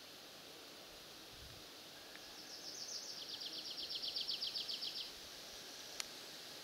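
A small songbird sings a fast trill of rapidly repeated high notes, about three seconds long, that grows louder before stopping abruptly. There is a faint steady hiss throughout and a single sharp click near the end.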